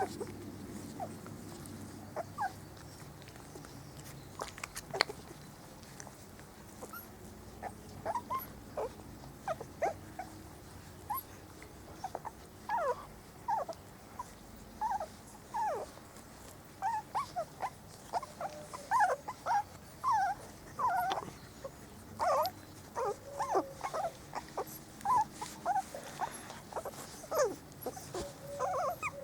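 Four-week-old Spanish Water Dog puppies whimpering and squeaking in short, high, sliding squeals. The squeals are sparse at first and come thick and fast through the second half. A single sharp click comes about five seconds in.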